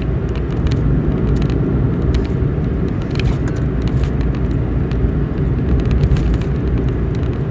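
Steady low rumble of a car in motion heard from inside the cabin, with a few faint clicks and rattles.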